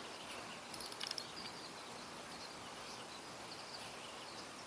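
Faint outdoor ambience: a low steady hiss with scattered short high chirps from small birds or insects, and a brief cluster of faint clicks about a second in.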